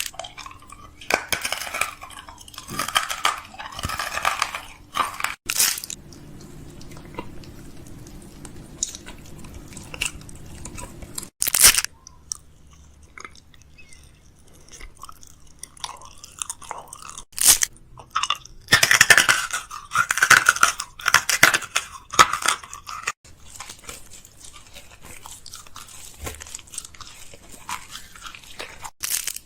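Close-up crunchy chewing in irregular bouts with pauses, and a few sharp clicks, over a faint steady hum.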